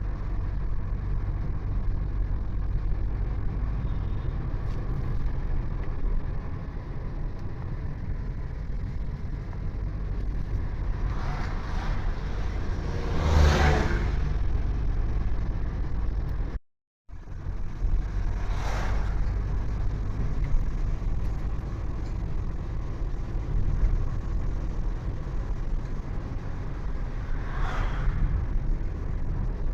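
Steady low road and engine rumble of a moving vehicle on the road, with other vehicles passing by three times; the loudest pass swells and fades a little before the middle. The sound cuts out completely for a moment just after the middle.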